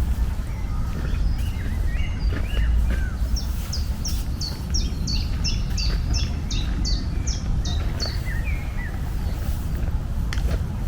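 A songbird singing a run of about a dozen quick, high, downslurred notes, about three a second, in the middle of the stretch, with other scattered bird chirps, over a steady low rumble of outdoor ambience.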